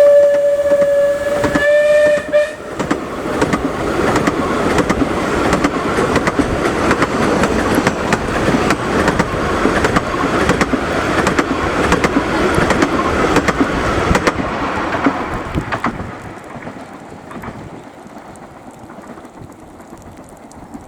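The steam whistle of Bure Valley Railway No. 7 Spitfire, a 15-inch gauge steam locomotive, sounds the end of a toot, dipping slightly in pitch as it passes, and cuts off about two and a half seconds in. The engine then goes by working hard, with rapid, even exhaust beats and the clatter of wheels over the track. The sound fades after about fifteen seconds as the train moves away.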